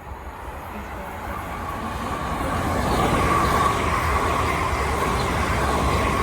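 A passenger train approaching and running past, growing louder over the first three seconds and then holding steady as a rumble with a high-pitched tone from the wheels on the rails.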